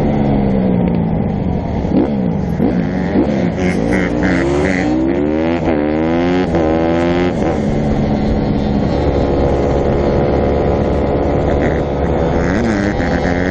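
Dirt bike engines revving, their pitch climbing and dropping repeatedly with several notes crossing, then settling to a steadier running note from about eight seconds in.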